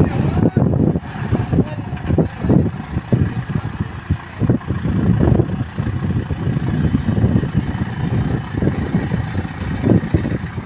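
Farm tractor engine running, loud and uneven in level.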